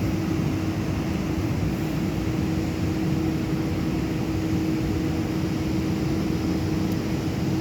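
Newag Impuls 36WE electric multiple unit standing at the platform, its onboard equipment giving a steady hum with one held tone over a low rumble.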